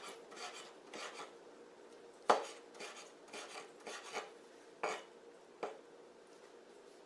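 Kitchen knife working on a cutting board: short rasping strokes a few tenths of a second apart, with a few sharp knocks, the loudest about two seconds in.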